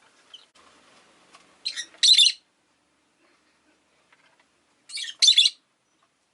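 Rosy-faced lovebird giving two shrill, harsh calls about three seconds apart, each a short note followed at once by a longer one.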